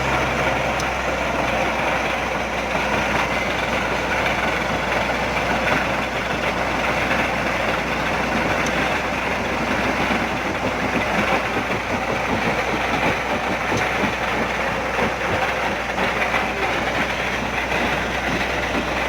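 Heavy engine running steadily: a constant low hum under a dense, even noise, starting abruptly at a cut.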